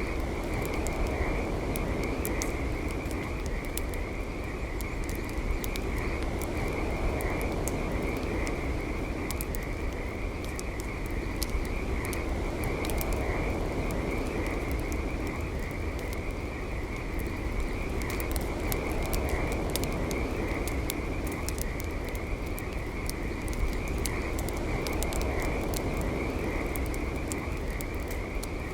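Campfire crackling, with sharp pops all through, over a steady high-pitched trilling chorus of frogs.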